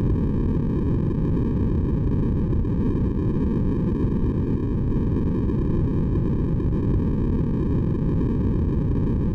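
Steady white noise for sleep, a deep even hiss with most of its energy low down and little treble. It holds constant with no changes.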